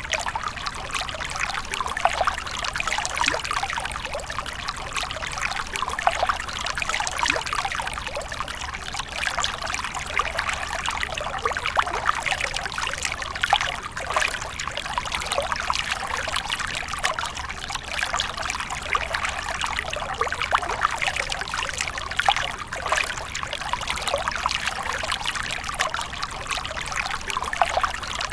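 Water splashing and trickling continuously, a steady stream of small splashes and bubbling with no breaks.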